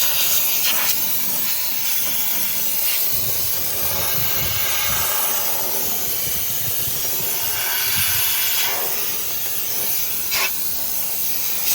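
Small handheld steam cleaner jetting steam, a continuous hiss that swells and eases as it is worked over the engine bay.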